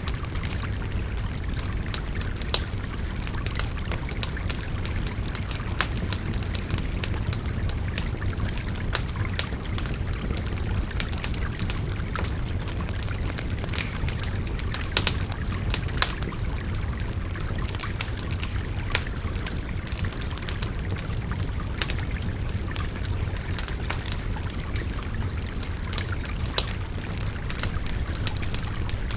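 Wood fire crackling with frequent sharp pops over the steady rush of a babbling river. A few pops stand out louder than the rest.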